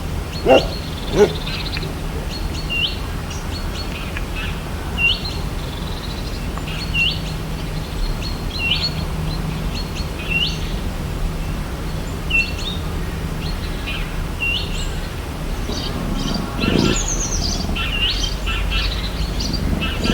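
A bird repeating one short, upward-hooked call roughly every one and a half to two seconds, giving way near the end to a busier mix of chirps from several birds. A dog barks twice at the very start.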